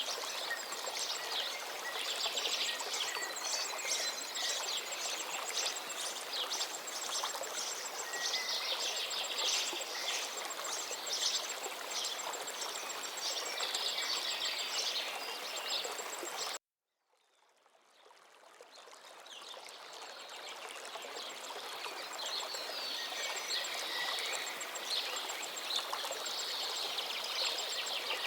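Steadily flowing forest river with many songbirds chirping and trilling over it, and a rapid high ticking call above. About two-thirds of the way in, everything cuts out abruptly for a moment and then fades back up over a few seconds, as at a loop or edit point in the recording.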